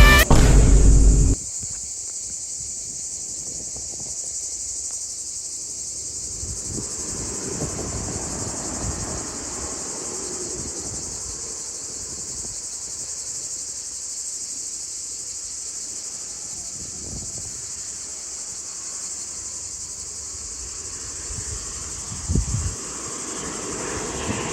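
Steady high-pitched drone of insects calling. A loud burst of music cuts off about a second in, and faint low rumbling comes and goes beneath the drone.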